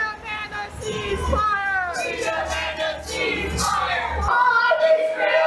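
A crowd of protesters chanting in unison, many voices together, over a low rumble that cuts off about four seconds in.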